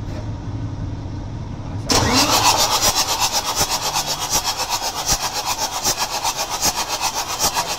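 Howo A7 380 truck diesel engine: a low steady hum, then about two seconds in it catches and runs loud with a rapid, even clatter. The engine is a hard starter that runs with a knock ('lagatak'), the fault being troubleshot.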